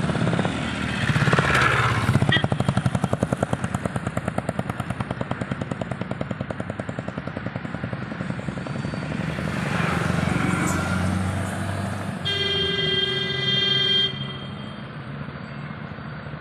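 A vehicle's engine running with a fast, even pulse, and a vehicle horn sounding one held note for about two seconds, about three-quarters of the way through.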